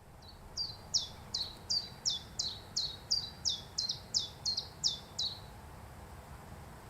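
A bird calling a series of about a dozen high, sharply falling notes, two or three a second, which stop about five seconds in.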